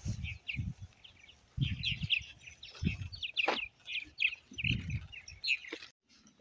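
Small songbirds chirping, many short high chirps in quick succession, over intermittent low rumbling; the sound cuts off suddenly near the end.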